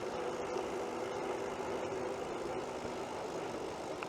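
BMX bike rolling along a paved campground road: a steady rushing noise of tyres and air, with a faint steady hum underneath.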